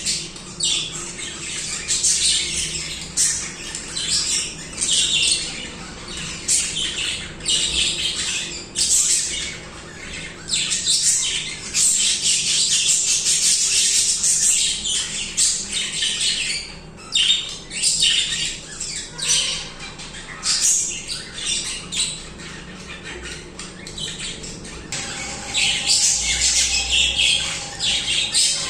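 Several budgerigars chattering and warbling together: a dense, continuous stream of rapid high chirps and trills, quieter for a few seconds past the middle.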